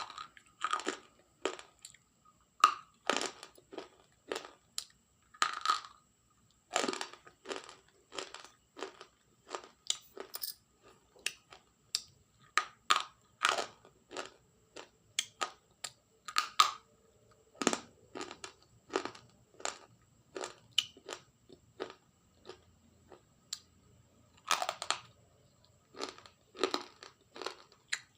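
Close-up ASMR crunching: a string of sharp, crisp crunches, irregular, about one to two a second, with short pauses between them.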